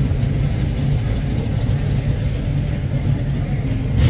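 A car engine idling with a steady low hum. A short sharp knock comes at the very end.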